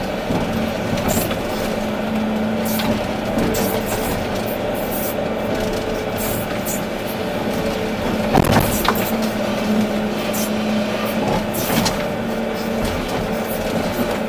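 Volvo EC380D excavator's diesel engine running steadily under working load. A couple of sharp knocks come about eight and a half seconds in and again near the end, typical of bucket or material impacts.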